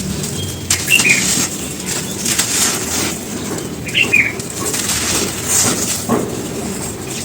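Dry charcoal ash being crumbled: a series of crisp crunching, crumbling bursts about every second or so over a constant gritty background.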